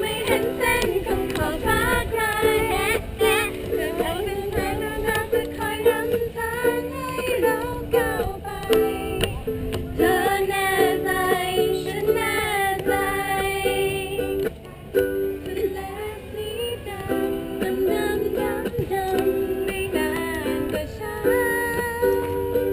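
Ukulele strumming chords in a steady rhythm, with voices over it.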